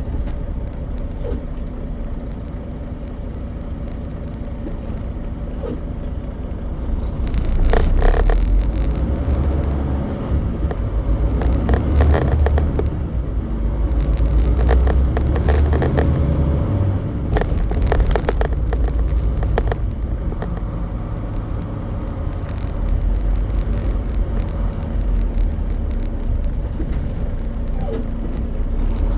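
Semi truck on the move: a steady low rumble of diesel engine and road noise, broken by several short bursts of rattling and clatter in the middle stretch, as over bumps.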